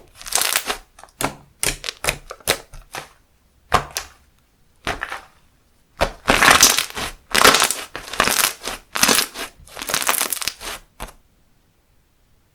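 Handmade slime squeezed and pressed by hand, a run of short crackly squishes about every half second that stop a second and a half before the end.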